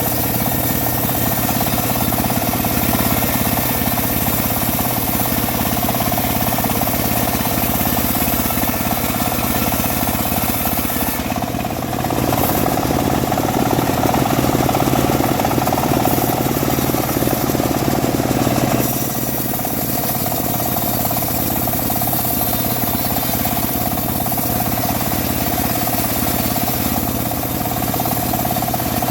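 Engine of a homemade bandsaw sawmill running steadily, getting louder and noisier for several seconds in the middle.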